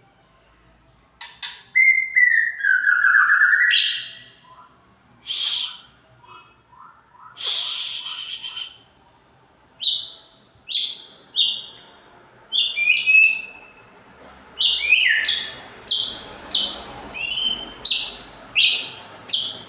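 White-rumped shama (murai batu) singing: clear whistled phrases that sweep up and down, a couple of harsher notes, then a quick run of short, sharp notes about twice a second.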